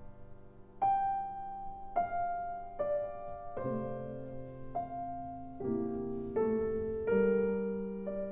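Slow, gentle solo piano music: notes and chords struck roughly once a second and left to ring out.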